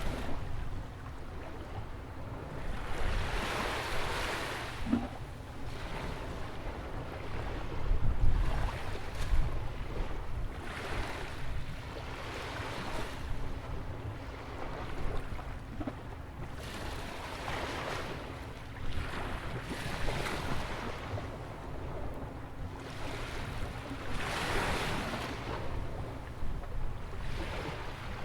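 Ocean waves breaking and washing in at a sandy beach beside a jetty, a surge every two to four seconds with two bigger ones near the start and near the end. Wind rumbles on the microphone, and a faint steady hum runs under most of it.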